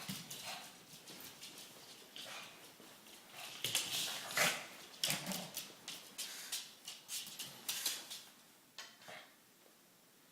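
A dog making a run of short, breathy, unpitched sounds, thickest in the middle and dying away about nine seconds in.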